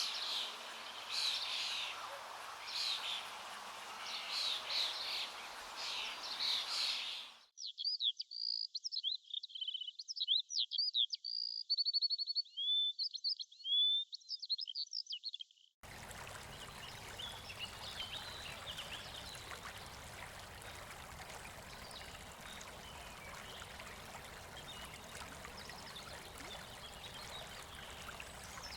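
Birds singing repeatedly over the steady rush of a river. A little past seven seconds the rush drops out abruptly, leaving only quick chirps and trills. About sixteen seconds in the river rush returns, with faint bird calls over it.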